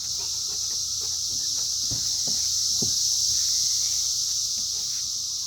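A chorus of cicadas buzzing, as one steady high-pitched drone that does not let up.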